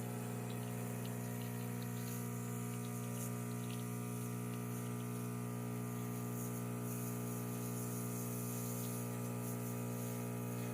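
Gaggia Classic espresso machine's vibratory pump buzzing steadily as it pumps water through the group head to pull an espresso shot.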